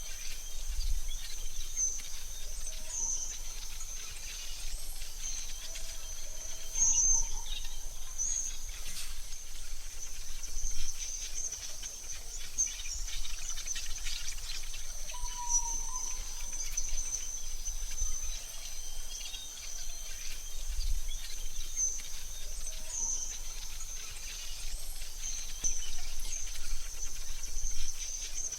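AI-generated forest ambience: a steady, high insect-like trill with scattered bird chirps over a low rumble.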